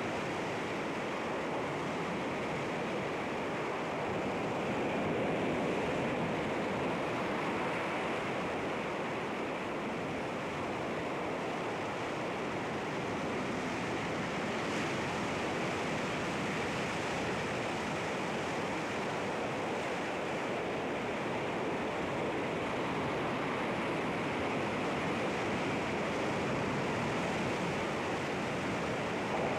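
Sea waves washing against rocks, a steady rushing surf with gentle slow swells in loudness.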